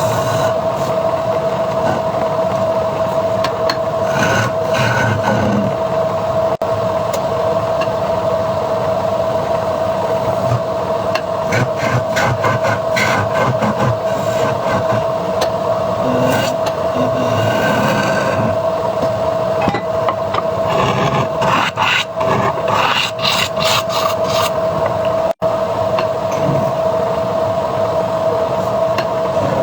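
Wood lathe running with a steady whine while a hand-held turning tool scrapes and cuts the spinning wood, the rasping cuts coming and going.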